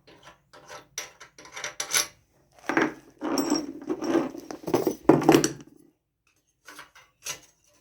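Small metal engine parts and tools clinking and rattling as they are handled: scattered clicks, then a denser stretch of clattering from about three seconds in, falling back to a few clicks near the end.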